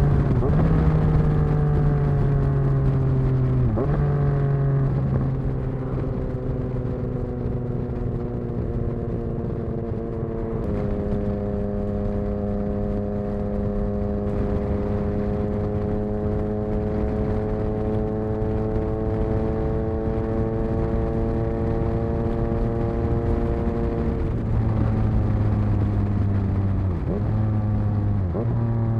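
Yamaha XSR900's inline-three engine through an exhaust with the dB killer removed, running under way: the note falls slowly, jumps up once, holds a steady slightly rising drone for a long stretch, then drops sharply near the end as the bike shifts up.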